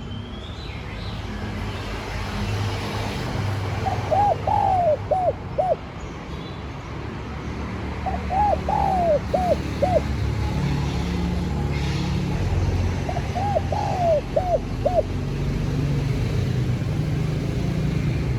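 Spotted dove cooing: three phrases about four seconds apart, each a quick run of about five hooting notes. A steady low rumble lies underneath.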